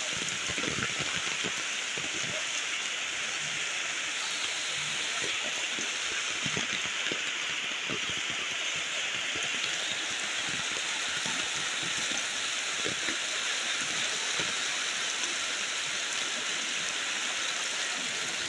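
Steady rain falling, with many drops ticking on surfaces close by, over the continuous rush of a river in flash flood.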